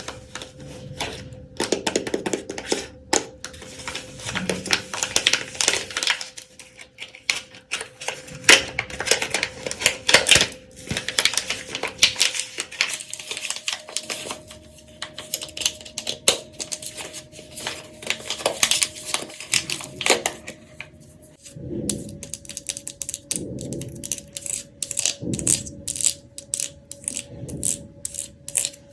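Dry soap crackling and snapping as it is worked close to the microphone, in quick runs of small crisp clicks.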